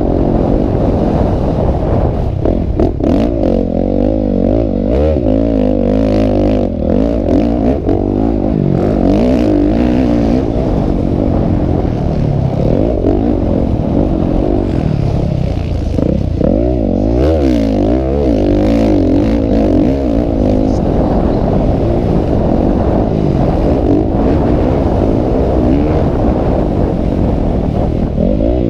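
Several motocross bikes' engines revving up and down at once, loud throughout, their pitches rising and falling over one another as they race.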